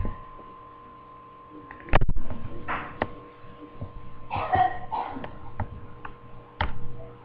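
Toy flying helicopter's small electric motor whining thinly and steadily, with several knocks and thumps; the loudest knock comes about two seconds in.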